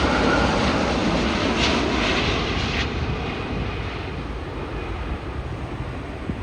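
Large jet airliner's engines rumbling on landing at close range, the noise dying away over the second half.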